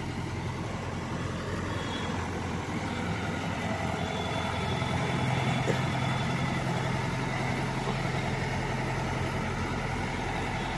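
Yanmar combine harvester's diesel engine running steadily with a low drone and threshing-machinery noise, growing a little louder about halfway through.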